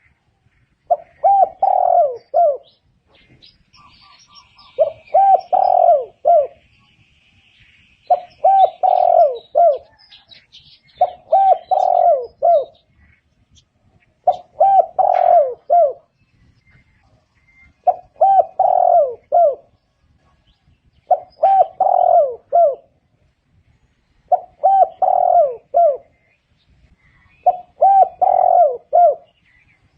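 Spotted dove cooing its repeated phrase of several notes, nine phrases about three seconds apart. Faint chirps from other small birds sound between the first few phrases.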